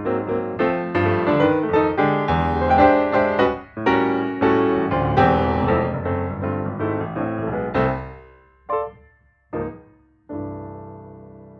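Piano music drawing to a close: a flowing run of chords, two short chords about nine and ten seconds in, then a final chord left to ring and fade.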